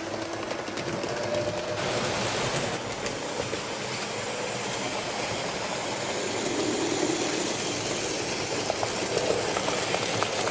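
H0-scale model train running along the track: a steady electric-motor whir with light clicking from the wheels on the rails.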